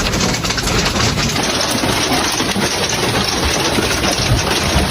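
Large hailstones, about pigeon-egg size, pelting a motorhome during a sudden severe storm: a loud, dense, unbroken clatter of many sharp impacts.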